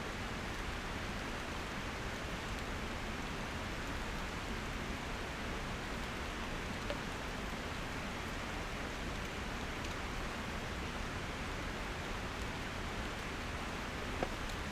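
Steady, even rushing noise, with a faint click about seven seconds in and a sharper one near the end.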